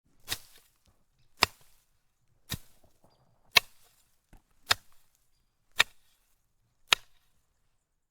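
Seven sharp knocks, evenly spaced a little over a second apart, each dying away quickly.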